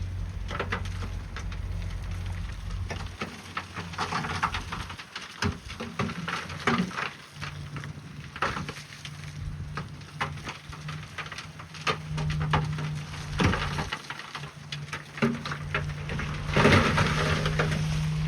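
Bulldozer's diesel engine running steadily, its note stepping up partway through, under irregular crunching and clattering of rock being pushed and broken, loudest near the end.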